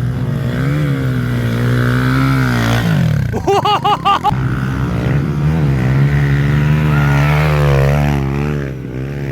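A pit bike engine running under load, its revs rising and falling as it is ridden, with a quick run of short rev swells about three and a half seconds in.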